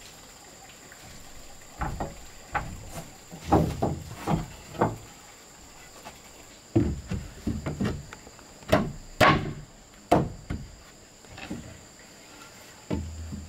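Wood knocking: irregular knocks and thumps of timber being handled and struck, in a cluster about two seconds in and another from about seven seconds. A steady high insect drone runs underneath.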